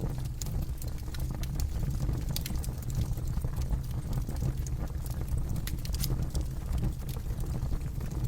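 Campfire burning, with steady low rumbling and frequent sharp crackles and pops of burning wood.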